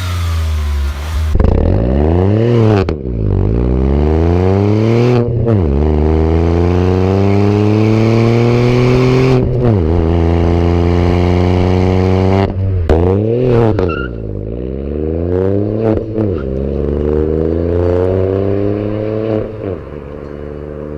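Three-cylinder car engine accelerating hard through the gears: the engine note climbs steadily and drops sharply at each upshift, several times over, easing off near the end.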